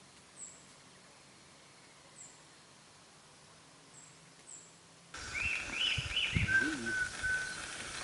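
Wild bird calls. Faint, thin, very high chirps come every second or two. About five seconds in, the background suddenly gets louder and different calls start: a quick run of arched chirps, then four or five short, level whistled notes, with a few low thumps underneath.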